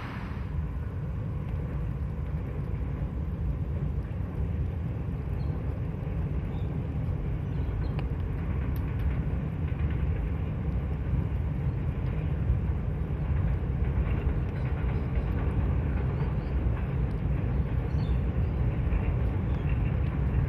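Diesel locomotive engine rumbling at a distance, slowly growing a little louder.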